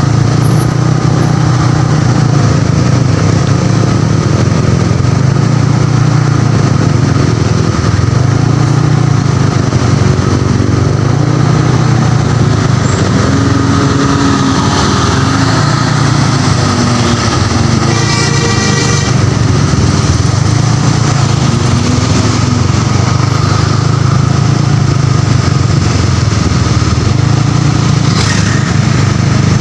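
Motorcycle engine idling steadily at close range. A short high-pitched tone sounds once, about two-thirds of the way through.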